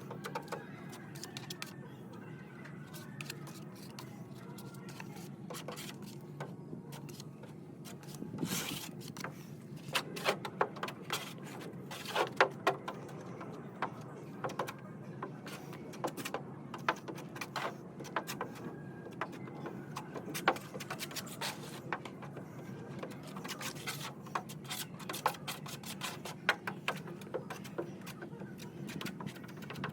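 Irregular clicks and light knocks, with some scraping, over a steady low hum; the taps are busiest from about a third of the way in until near the end.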